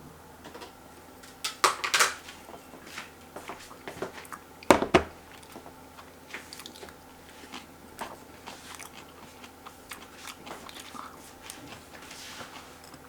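A person biting and chewing crunchy food close to the microphone, with two loud crunches, one about one and a half seconds in and one around five seconds in, followed by softer chewing clicks.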